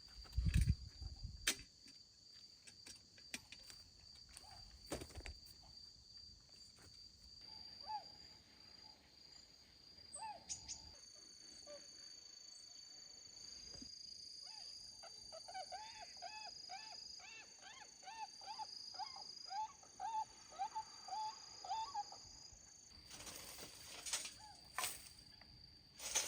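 Steady insect chirring, with a run of quick, repeated honking calls from swans on the lake about halfway through, two or three a second for several seconds. A few soft knocks come near the start and a patch of clicking near the end.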